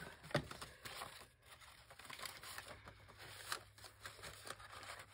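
Faint rustling and crinkling of paper craft pieces being handled and sorted, with a few light clicks.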